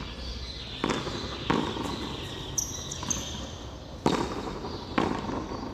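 Frontón a mano rally: the hard smacks of a handball off bare hands and the front wall, about five in all, each with a short echo. Two brief high squeaks come near the middle.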